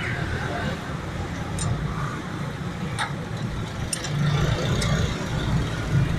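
A motor vehicle engine running low and steady, with a few short sharp clicks.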